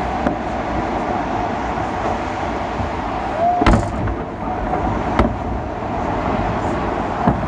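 Fireworks salute going off in the distance: a few sharp bangs over a steady background rumble, the loudest about halfway through, then another about a second and a half later and one more near the end.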